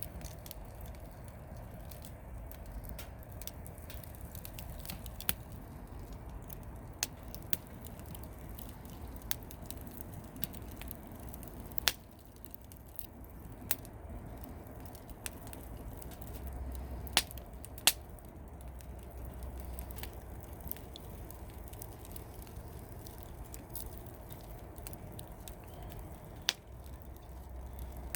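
Wood campfire burning with a steady crackle and irregular sharp pops from the burning firewood, a few of them loud.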